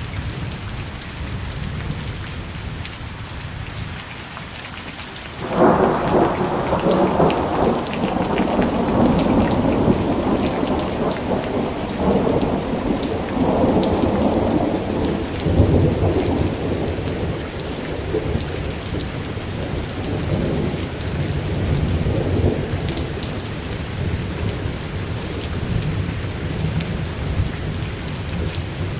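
Steady rain falling, with a thunderclap breaking sharply about five seconds in. The thunder crackles for several seconds, then rolls on as a low rumble under the rain.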